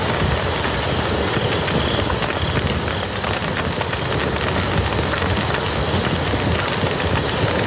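Wood fire crackling over a steady rush of river water.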